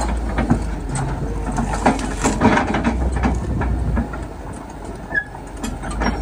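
Heavy machinery's engine running with a steady low rumble, under irregular metallic clanks and knocks.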